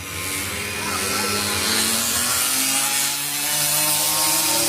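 Small mini GP racing motorcycle engine running at high revs with a loud buzz as a bike passes close. Its pitch climbs over the first two seconds, then falls and levels off.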